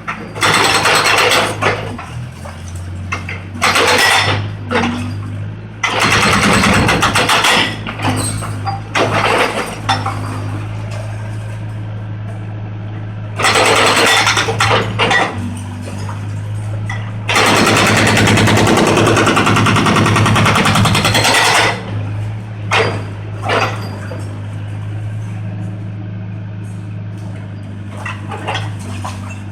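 Volvo 55 mini excavator's diesel engine running steadily, broken repeatedly by loud bursts of crunching and scraping as it breaks up a concrete roof, the longest lasting about four seconds.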